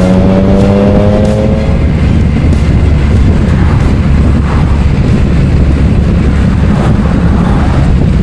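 Motorcycle engine running steadily while riding, a loud, continuous low rumble. A rising tone fades out in the first two seconds.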